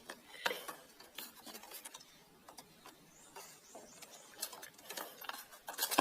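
Scattered small taps and clinks of hard objects being handled and set down, a little louder about half a second in and again near the end.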